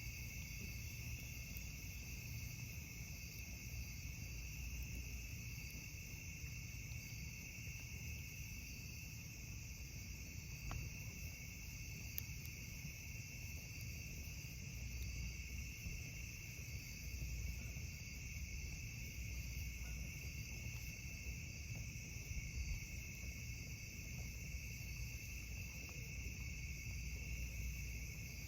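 Steady, unbroken chorus of night insects, crickets among them, in two high-pitched bands, over a low rumble.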